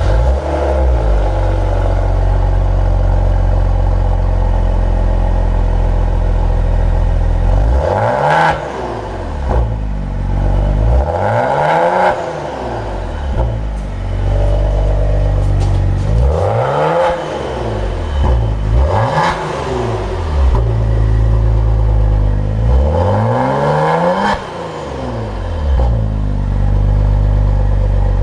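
Maserati Ghibli's stock factory exhaust at idle, blipped about five times. Each rev rises and falls back to idle.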